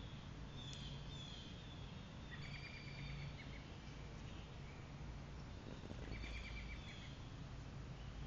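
Quiet woodland with a steady hiss. A songbird sings a short run of rapid repeated notes twice, a few seconds apart, with a few thin chirps near the start.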